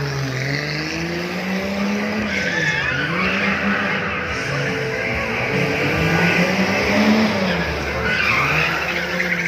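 Race car engine revving up and down over and over, with tyres squealing and skidding.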